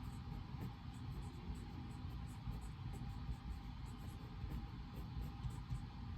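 Steady low rumbling room noise of a reading room, played as white noise, with faint light ticks scattered through it.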